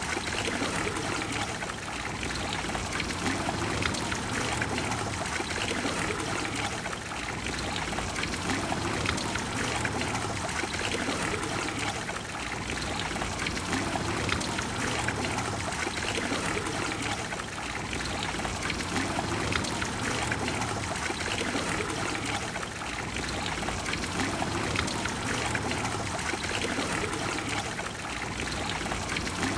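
Trevi Fountain's water falling and splashing into its basin, a steady rush and trickle of water.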